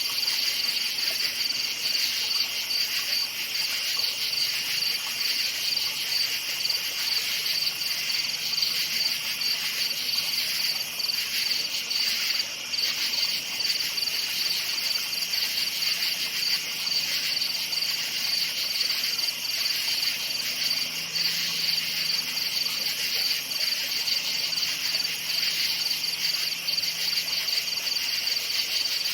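A night chorus of crickets chirping without pause: a dense, high-pitched pulsing trill at two pitches, with a faint low hum underneath.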